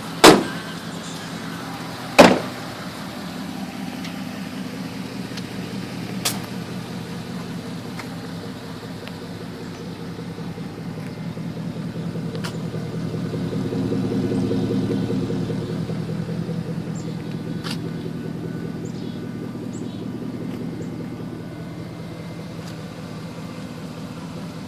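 Pickup truck engine idling steadily, with two loud sharp knocks in the first couple of seconds. About halfway through, the engine grows gradually louder for a few seconds, then eases back to idle.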